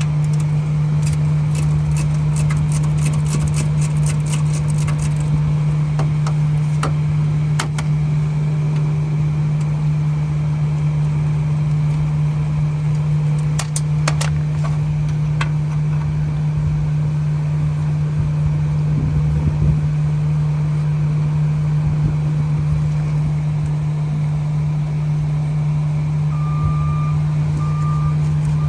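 A steady low machine hum runs under small metal clicks and taps of a wrench and screw being worked out of a gas valve's test port. Near the end come four short evenly spaced beeps, like a vehicle's reversing alarm.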